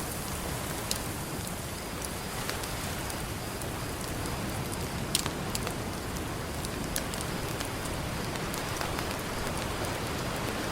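Campfire crackling with scattered sharp pops, the loudest about five seconds in, over a steady wash of ocean surf.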